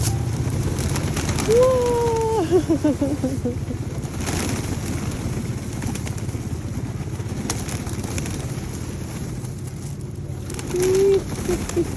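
Pigeons cooing: one long falling coo breaking into stuttering pulses a second or two in, and a shorter coo near the end, over a steady low background noise.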